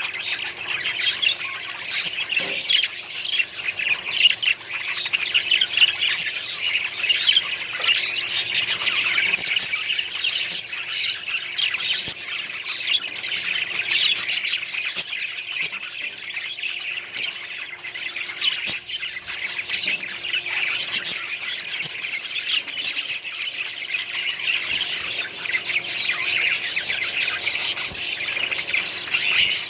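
A small colony of budgerigars chattering together: a dense, continuous mix of warbles, chirps and squawks.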